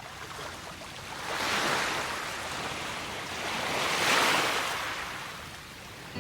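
Waves breaking and washing in twice, each swelling up and then ebbing away.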